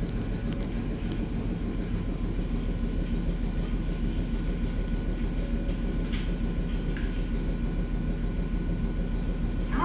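Ohmi Railway electric train running, a steady low rumble heard from inside the passenger car. A faint steady whine comes in about seven seconds in.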